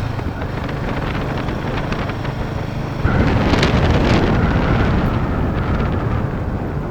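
Royal Enfield Himalayan 450's single-cylinder engine running while riding on a paved road, with wind noise on the microphone. The sound gets louder about three seconds in.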